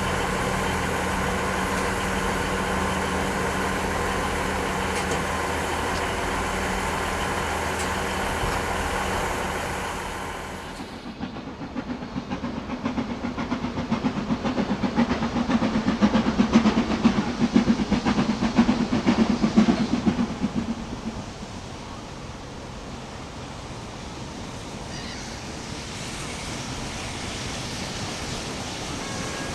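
Railway train sounds in two edited shots. First a steady locomotive engine hum holding one pitch, then a train passing with rapid rhythmic beats that build to a peak around the middle and fade away.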